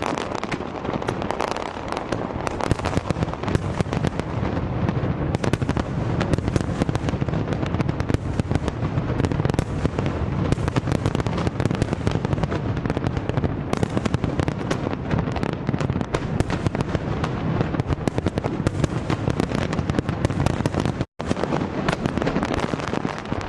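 A dense, continuous barrage of fireworks, with many bangs and crackles a second over a heavy low rumble. The sound cuts out for an instant about 21 seconds in.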